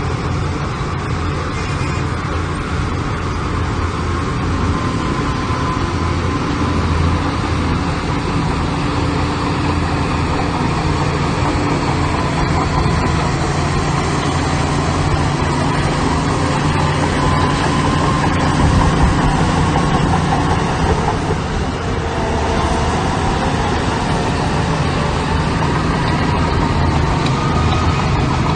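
Heavy diesel engine of earth-moving machinery running steadily, with a faint whine that drifts up and down in pitch at times.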